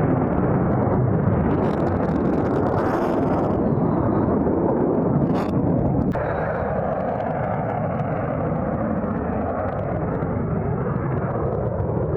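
An F-22 Raptor's twin Pratt & Whitney F119 turbofan engines, heard as loud, steady jet noise in flight. About six seconds in the sound drops a little and loses some of its higher part.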